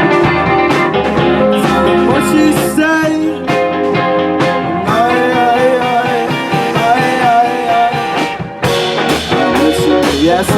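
Live rock band playing a passage of a song without vocals, guitar to the fore.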